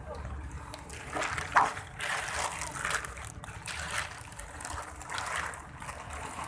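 Rain pouring down, with water trickling and splashing and uneven surges of hiss, and a sharp tap about one and a half seconds in.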